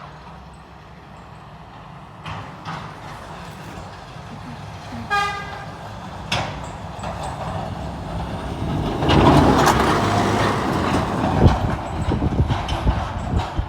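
Snowplow truck approaching and passing, its rumble and road noise building to a loud peak from about nine seconds in. A short horn toot sounds about five seconds in.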